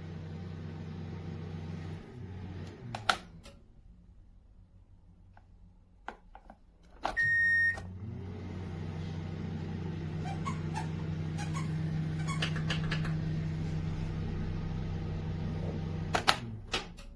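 Russell Hobbs RHM2076B 800 W solo microwave oven running with a steady low hum, which stops with a click about three seconds in. After a few quiet seconds and some clicks, a single long beep sounds and the hum starts up again, running until a few clicks cut it off near the end.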